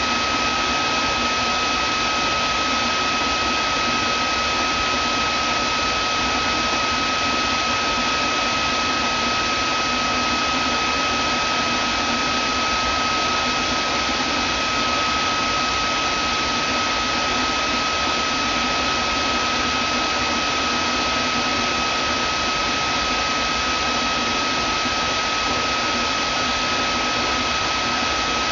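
Vacuum cleaner running steadily: an even hiss with a constant high whine from the motor, no change in pitch or level.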